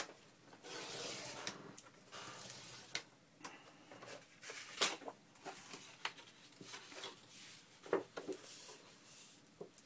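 Paper slicer cutting through a card file folder: soft rasping strokes of the blade and paper sliding, with a few sharp clicks of the slicer and folder being handled.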